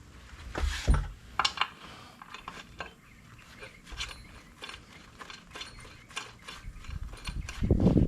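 Irregular metallic clicks and clinks of hand-worked wheel hardware, with a louder knock about a second in and heavier low thumps near the end.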